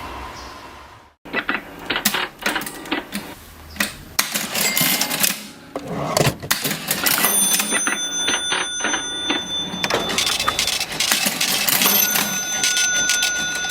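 Vintage mechanical cash register being worked: dense runs of sharp key clacks and lever clatter. Thin ringing tones hang on in the second half. A short dead gap about a second in marks a cut between takes.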